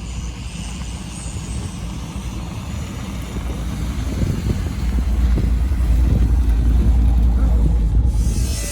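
Truck engine running with a deep low rumble that builds louder from about halfway, then drops off just before the end.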